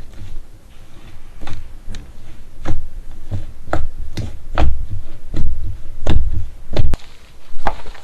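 Slime being squeezed and pressed by hand, giving about a dozen sharp wet pops and clicks, one or two a second, each with a low thud.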